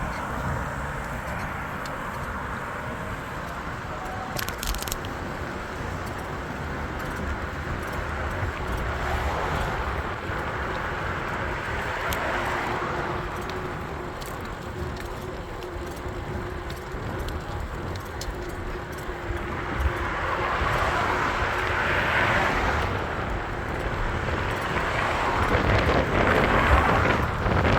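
Wind rush and road noise on a moving e-bike's camera microphone, with a low rumble and a faint steady hum. The rush swells around two-thirds of the way in and again near the end, as with passing traffic or gusts.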